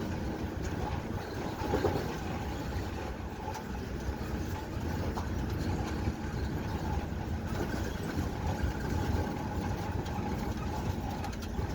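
Steady rumble of a moving vehicle's engine and road noise, with a faint steady hum.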